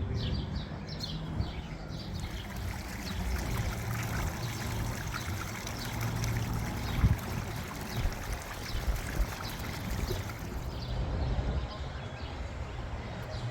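Water from a small waterfall splashing and trickling into a pond, with gusty wind rumbling on the microphone.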